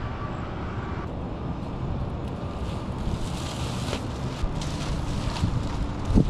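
Wind buffeting the microphone, a steady low rumble, with a few light knocks and rustles and one sharp thump near the end.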